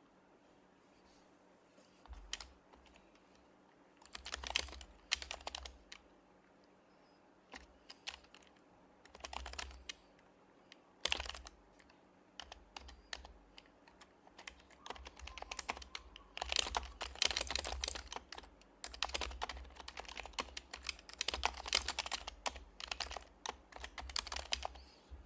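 Typing on an HHKB Professional HYBRID Type-S keyboard, a Topre electrostatic-capacitive board with quietened keys. The soft key presses come in bursts at first, starting about two seconds in, then run as long fast stretches in the second half.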